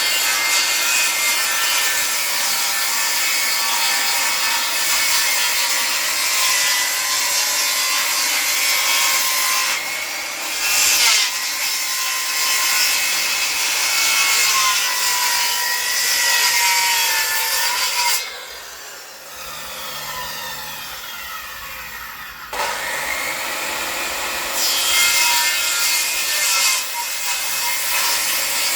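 Electric circular saw ripping a wooden board lengthwise, the blade's whine wavering in pitch as it bites into the wood. About eighteen seconds in the cutting eases off for a few seconds, then the saw cuts again.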